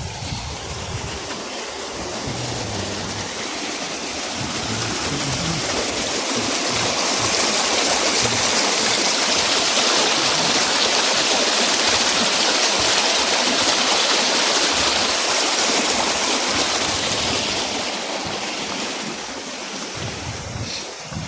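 Rushing water of a spring-fed stream and cascades running strong after rain, a dense steady rush that grows louder toward the middle and eases off near the end.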